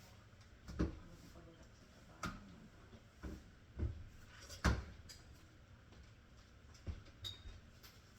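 Kitchen clatter: a handful of separate knocks and clicks spread out over several seconds, the loudest a bit under five seconds in.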